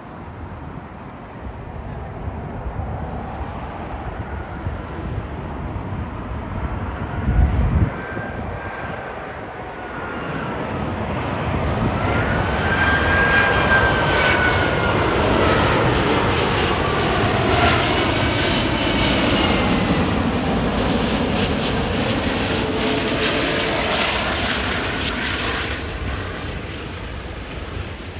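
Jet airliner passing low overhead on approach to land, its engine roar building, peaking and fading, with a turbine whine that bends up then down in pitch as it goes by. A brief low thud about seven and a half seconds in.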